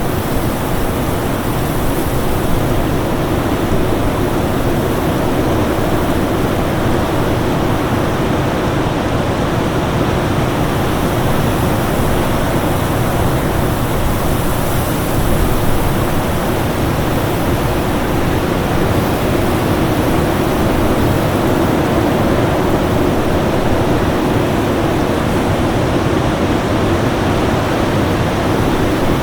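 Winter storm wind as a dense, steady rushing noise, swelling slightly a couple of times.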